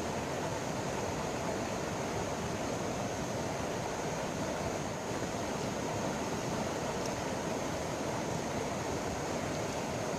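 River water rushing steadily, an even noise without breaks, with a thin steady high tone above it.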